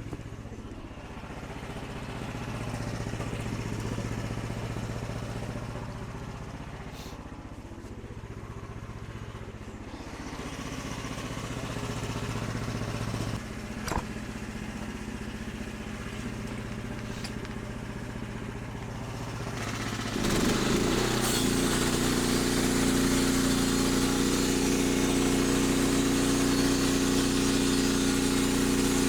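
An engine running steadily. About twenty seconds in it speeds up and gets louder, then holds a higher, steady pitch. There is a single sharp knock a little past the middle.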